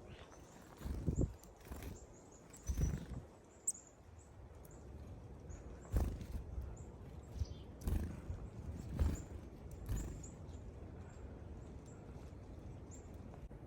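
Footsteps of a hiker walking on a trail, dull irregular thuds roughly a second apart, with faint high chirps of small birds.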